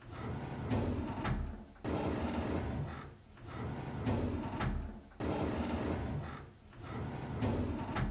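A drawer sliding open on its runners, over and over. Each pull is a rumbling slide of about a second and a half, with a small knock in it, and a new one starts every one and a half to two seconds.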